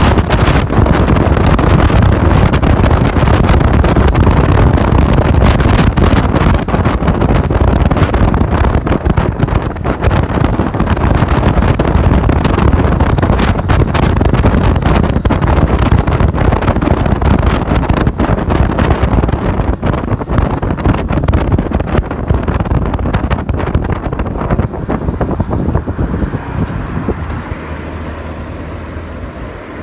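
Wind buffeting the microphone while riding a Honda CG 160 Start motorcycle, with its single-cylinder engine running beneath the wind noise. The rush eases off over the last few seconds.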